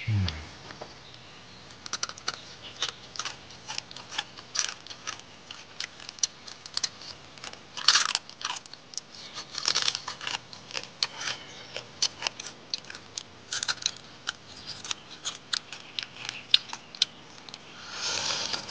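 Close-up eating sounds: braised crab being chewed and crunched with the mouth open, a steady run of small crunching clicks with a few louder slurps.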